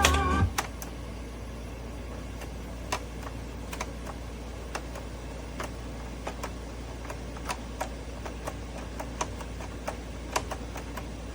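Record on an Audio-Technica AT-LP60XBT turntable playing a stretch of groove with no music: irregular crackles and pops over a steady low hum. Music cuts out about half a second in.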